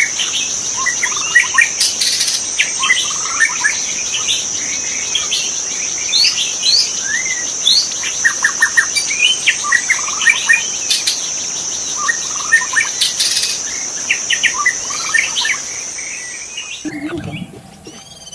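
White-rumped shama (murai batu) singing in short, varied whistled phrases and trills, over a steady high insect drone. The drone cuts off suddenly near the end.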